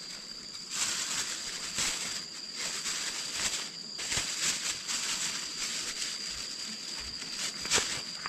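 Irregular rustling and crackling of dry leaves and undergrowth being pushed through or trodden, over a steady high-pitched whine.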